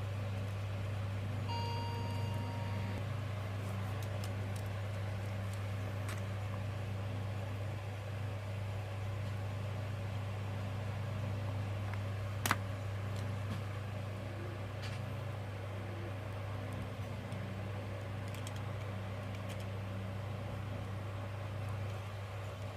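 A steady low hum throughout, with a short beep about a second and a half in and a single sharp click near the middle.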